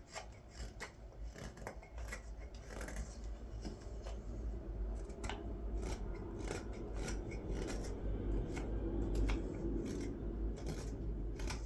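Carving knife shaving green wood on the back of a wooden ladle's bowl: a run of short, irregular slicing cuts.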